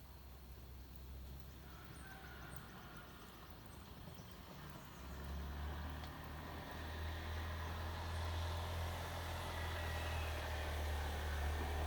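A distant engine's low, steady drone growing louder as it approaches, swelling markedly about five seconds in.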